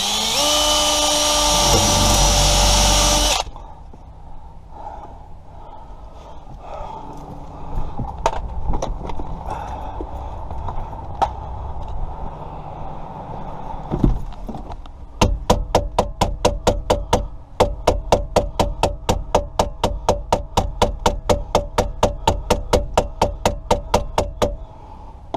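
Cordless drill running at the ignition lock cylinder for about three seconds, spinning up and then holding steady. Scattered knocks and tool handling follow. In the last third comes a run of sharp, evenly spaced clicks, about four a second, which stops shortly before the end.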